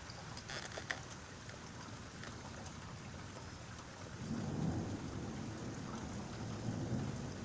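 Steady rain falling with a few sharp drip ticks, then a low rumble of thunder swelling about four seconds in and rolling on.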